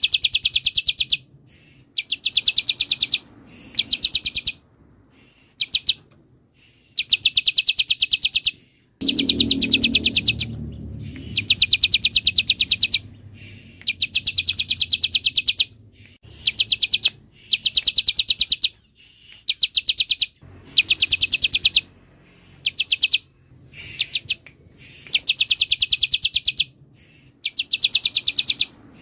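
Bar-winged prinia (ciblek) singing: fast, sharp, high-pitched trills in bursts of about half a second to two seconds, repeated over and over with short pauses between.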